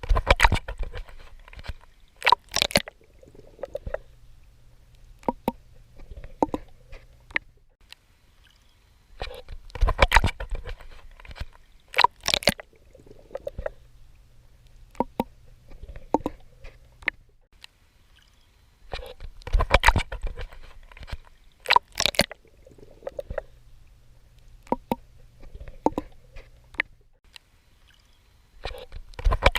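Swimming strokes splashing in water, in bursts that come back about every ten seconds. Between the bursts are quieter stretches with small drips and a low steady hum.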